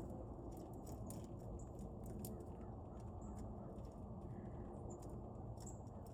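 Faint outdoor ambience at a bird feeder: a steady low rumble with scattered small clicks and a few brief high-pitched chirps.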